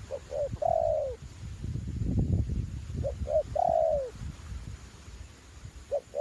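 Spotted dove cooing: two short notes and then a long, falling coo, given twice, with a third call starting at the very end. A low wind rumble on the microphone runs beneath it.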